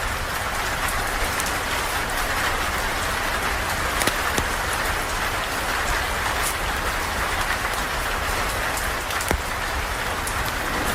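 Steady rain falling on a surface, with a few sharp ticks or pops scattered through it.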